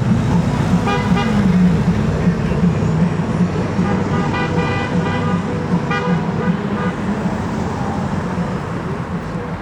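Honda Gold Wing motorcycles riding past, their engines running steadily, with short horn toots sounding several times.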